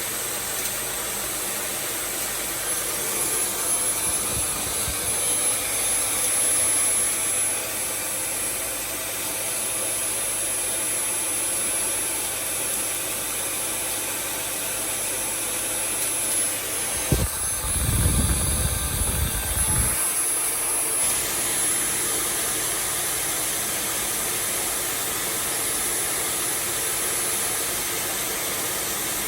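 Dyson V8 cordless handheld vacuum running steadily, with a constant high-pitched whine over its motor noise. About two-thirds of the way through, a low rumble lasts about three seconds, then the steady running goes on.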